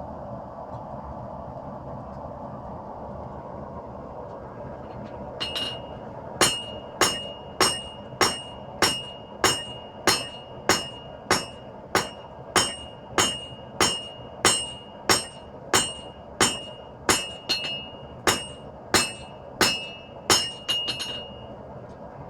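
Hammer blows on an anvil, forging a bar of 5160 spring steel: a steady run of ringing strikes, about three every two seconds, starting about five seconds in and stopping shortly before the end. A steady background rush runs underneath.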